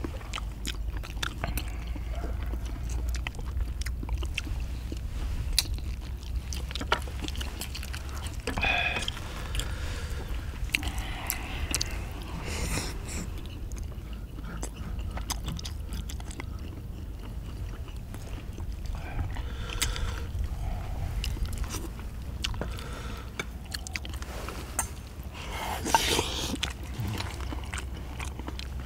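Close-up eating sounds: people chewing and biting into spicy braised chicken and chewy beef large intestine, with scattered clicks of chopsticks against bowls and the pan. A low steady rumble runs underneath.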